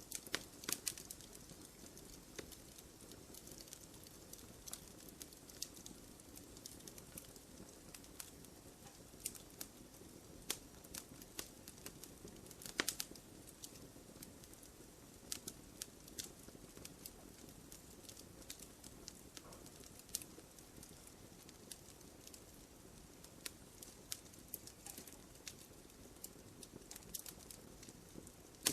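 Wood fire crackling in a fireplace: irregular sharp pops and snaps over a low steady rush of the flames, with a louder pop a little under halfway through.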